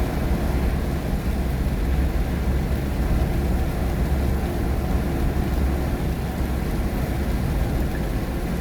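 Steady road noise inside a car driving at night in the rain: a low rumble of engine and tyres under an even hiss of tyres on the wet road and rain on the car.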